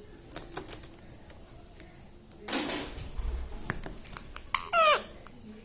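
Ring-necked parakeet sounds: a few light clicks and taps, a short harsh rasp about two and a half seconds in, and near the end a brief high call that drops sharply in pitch, the loudest sound.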